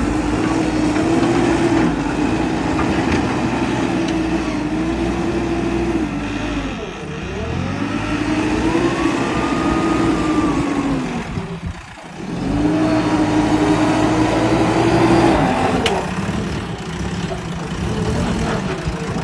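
Heavy diesel engine of a construction machine running hard under load. Its pitch drops and climbs back up twice, about six seconds in and again about twelve seconds in.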